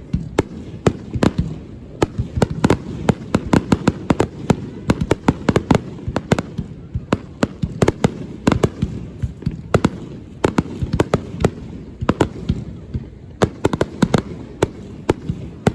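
Fireworks display: a rapid, irregular run of sharp bangs and crackles, several a second, over a continuous low rumble.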